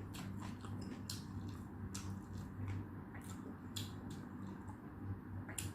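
Close-miked chewing of food, irregular small wet clicks and crunches from the mouth, over a steady low hum.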